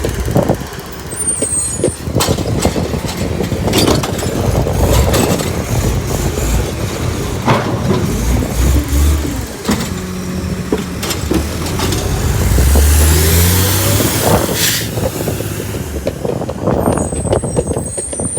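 Bridgeport Ranger recycling truck at work: its engine revs up twice to drive the hydraulic packing, over repeated clattering and banging of recyclables in the body, with short air hisses about a second in and near the end.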